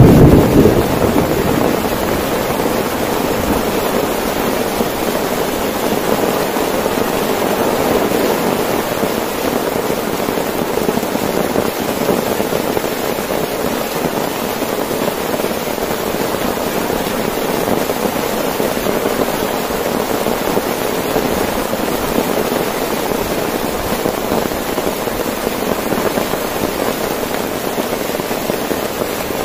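Heavy rain falling steadily on a tent, with a short clap of thunder at the very start that fades within about two seconds.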